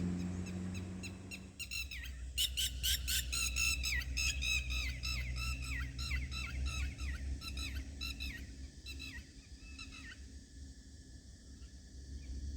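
Bird calling in a rapid series of short, squawky notes that each slide down in pitch, several a second, fading away after about eight seconds. A low steady hum comes before it.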